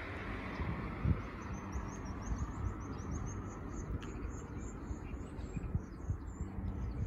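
A small bird chirping a rapid run of short high notes, several a second, with a few scattered chirps after it. Underneath is a steady low outdoor rumble with a few soft bumps, the loudest about a second in.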